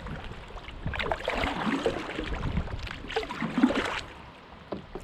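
Kayak hull scraping and grinding over rocks in a shallow, rocky riffle, in irregular surges, with moving water around it. It eases off in the last second.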